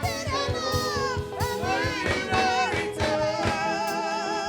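Church worship music: a voice singing over sustained chords with a quick drum beat. The drumming stops about three and a half seconds in, and a long wavering note is held.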